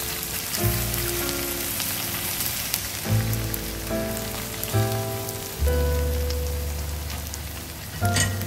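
Food sizzling in hot oil, a steady crackling hiss, under background music with slow sustained notes.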